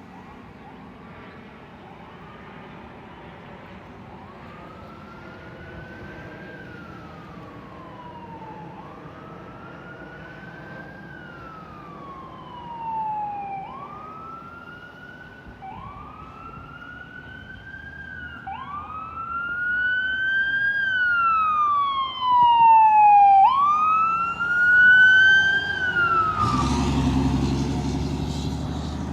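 Fire engine siren on a slow wail, rising and falling about every four to five seconds and growing louder as it approaches. Near the end the siren fades and the truck's engine rumble passes close by and loud.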